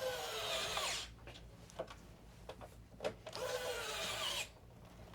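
Electric screwdriver driving screws: its motor whines steadily, then drops in pitch and stops about a second in. A second short run about three seconds in slows and stops the same way, with small clicks and taps between. The screwdriver is one that its user thinks might be dying.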